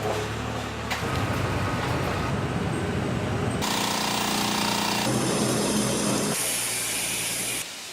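Construction-site machinery and power-tool noise, a steady mechanical racket that changes abruptly every second or two as one machine sound gives way to another.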